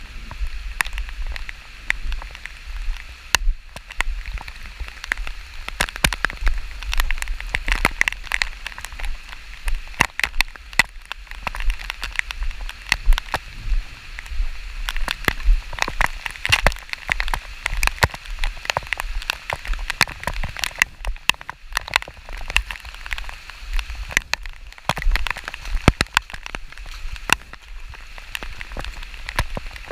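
Rain falling, with many close raindrops tapping sharply and irregularly near the microphone over a steady hiss, and a low rumble underneath.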